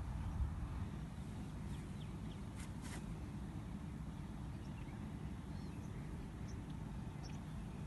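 Beach ambience: a steady low rumble, like wind and surf, with a couple of brief faint hissy sounds about three seconds in.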